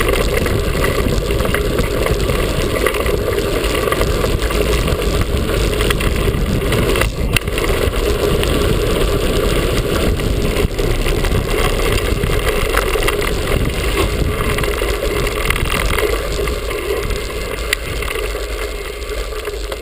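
Mountain bike rolling fast over a dirt trail: a steady loud rush of wind buffeting the microphone mixed with tyre noise and frame rattle.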